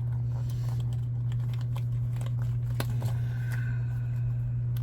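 Light clicks and rustles of RC crawler tires, inserts and wheel rims being handled, over a steady low electrical hum.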